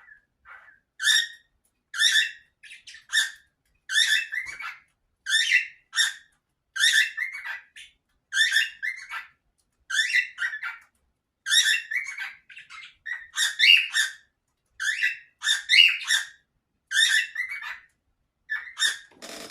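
Cockatiel calling over and over in short chirps, about one a second, some calls breaking into two or three quick notes.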